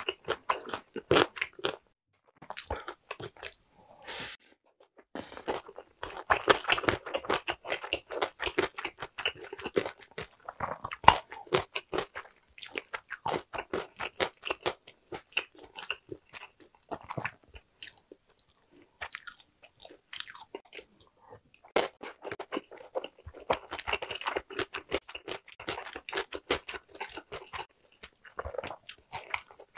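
A person chewing mouthfuls of egg tteokbokki and gimbap, with wet mouth noises coming in bursts separated by short pauses.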